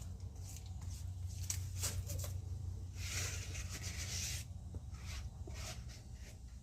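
Wet concrete being scraped and rubbed into a metal mesh slab form: scattered short scrapes and clicks, with one longer scrape about three seconds in, over a steady low hum.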